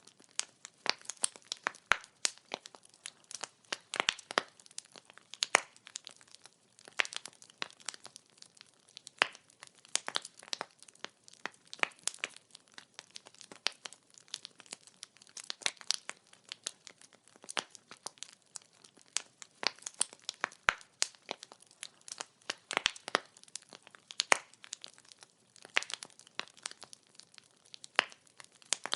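Wood fire crackling: burning firewood popping and snapping in quick, irregular clicks, several a second, over a faint hiss.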